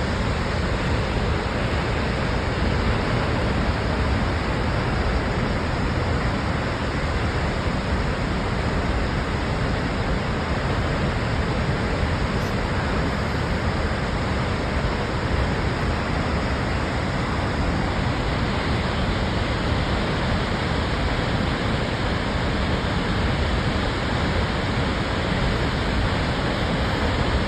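Snoqualmie Falls roaring: a loud, steady rush of heavy falling water with no let-up.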